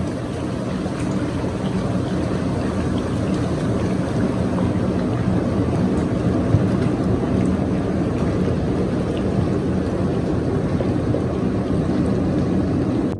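Jacuzzi running with its jets on: a steady pump hum under churning water.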